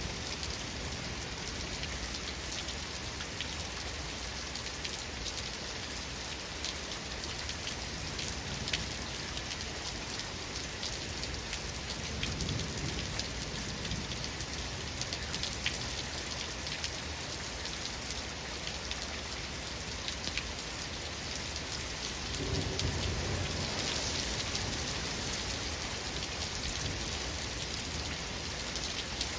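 Steady rain pattering on a surface, with many small drop ticks. Low thunder rumbles twice: a weaker one a little before halfway and a louder one about three quarters of the way in.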